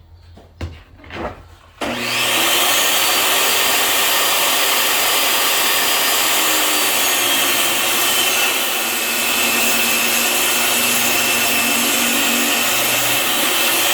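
Power saw cutting through a wooden board: a steady motor whine with cutting noise that starts abruptly about two seconds in, after a few light knocks.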